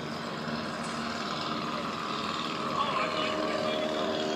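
Light single-engine propeller airplane, an experimental Piper PA-11, at full power on a short takeoff run. The engine's hum steadies into a clear tone and grows louder toward the end.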